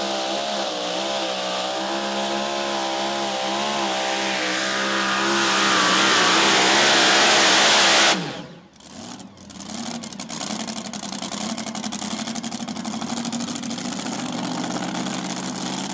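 Supercharged Hemi engine of a super modified two-wheel-drive pulling truck running hard under load, its pitch wavering as it grows louder. About eight seconds in the throttle is cut suddenly and the engine note falls away. It then settles into a choppy idle.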